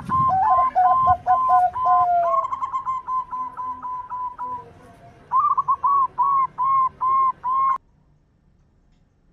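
Zebra dove (perkutut) cooing song: rapid strings of short, clear coo notes. A second, lower voice overlaps in the first couple of seconds, and a couple of low thumps sound in the first second or so. The song cuts off suddenly near the end.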